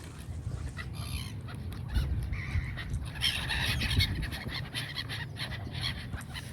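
Birds calling, with many short clicks and knocks among the calls; the calling is busiest in the middle.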